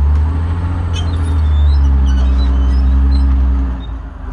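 Heavy vehicle engine running with a deep, steady low rumble. It drops off in level a little before the end.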